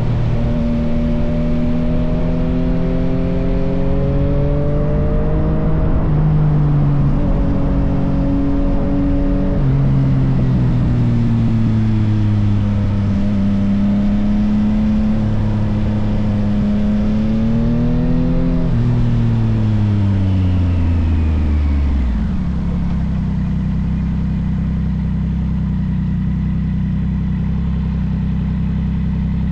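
Yamaha XSR900's three-cylinder engine through an M4 full exhaust, pulling in gears with the pitch rising and dropping back at each shift. About 19 s in it winds down, and from about 22 s it settles to a steady idle.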